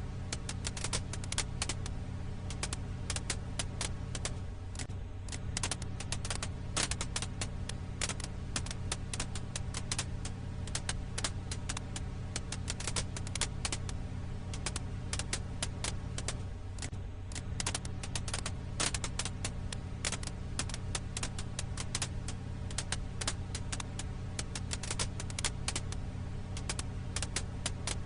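Firewood crackling in a fire: a dense, continuous run of small pops and snaps over a steady low rumble.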